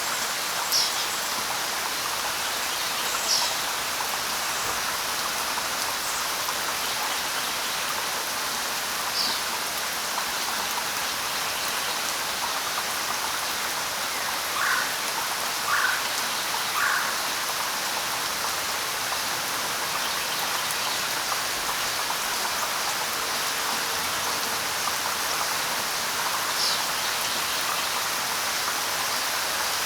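Steady light rain falling on leaves, with a few short bird chirps now and then and a run of three quick notes midway through.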